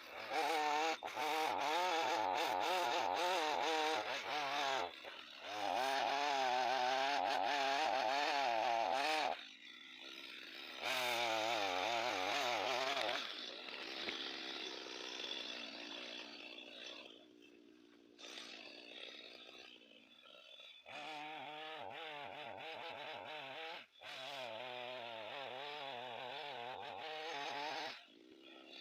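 Chainsaw running and cutting wood in several long runs, its engine pitch wavering as it works through the cut. It drops off briefly about a third of the way in and again about two-thirds in.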